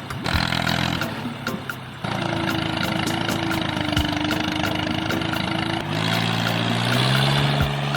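Small engine of a miniature tractor or bulldozer running steadily. Its tone changes abruptly about two seconds in and again near six seconds, with a few light clicks.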